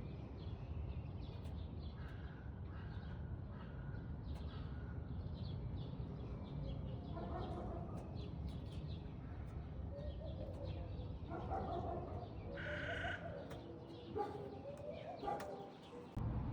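Short animal calls, several of them from about seven seconds in, over a steady low rumble.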